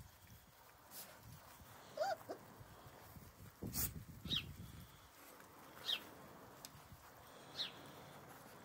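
A garden bird repeating a short, high, sliding call, three times about a second and a half apart in the second half. About two seconds in there is a single lower squeak, and a sharp knock with low scuffling just before the middle, from puppies around their food bowl.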